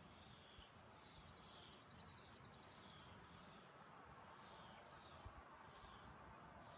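Near silence, with faint birds chirping repeatedly in the background and a rapid high trill from about one second in, lasting roughly two seconds.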